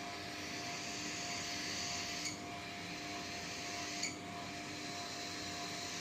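Two light clinks, about two seconds apart, each with a brief high ring, like a utensil or syringe knocking against a glass cup of hand-feeding formula. They sit over a steady hiss and faint hum.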